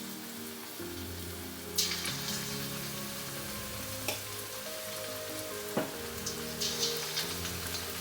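Marinated chicken pieces sizzling in hot oil in a frying pan, a steady hiss with sudden louder crackles and spatters several times as more pieces go into the oil.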